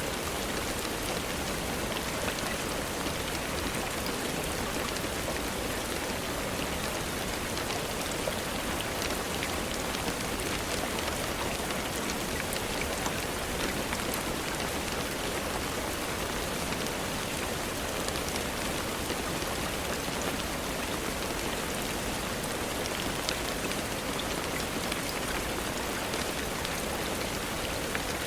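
Steady rainfall, an even hiss with scattered faint ticks of individual drops.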